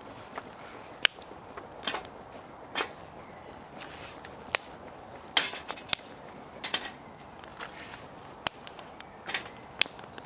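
Irregular sharp clicks and knocks, a few of them loud, over a steady low hiss.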